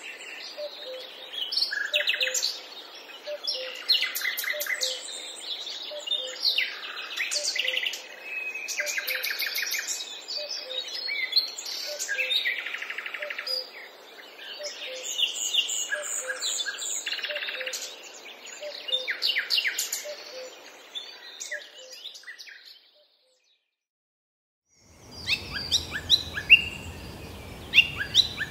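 Several forest birds singing and chirping, with many short rapid trills and calls and a faint low note repeating steadily underneath. Near the end the sound cuts to silence for about two seconds, then birdsong returns over a low rumble.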